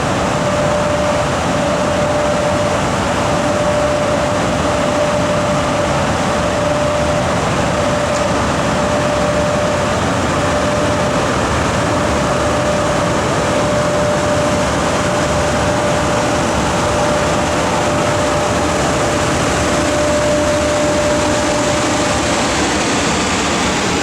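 Passenger train hauled by an EP1M electric locomotive moving off: a steady, even rumble and rush of running gear with a constant hum throughout.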